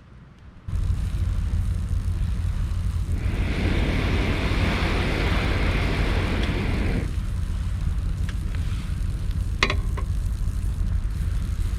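Campfire of branches and driftwood, with a steady low rumble that starts suddenly about a second in. A rushing hiss swells for about four seconds in the middle, and a few sharp crackles pop near the end.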